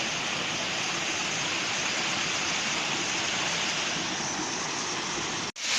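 Waterfall water rushing steadily over rock. Near the end it cuts out for a split second and returns a little louder.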